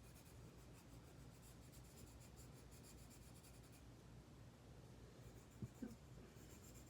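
Faint scratching of a colouring tool on paper while a drawing is coloured in, with two light taps a little before the end.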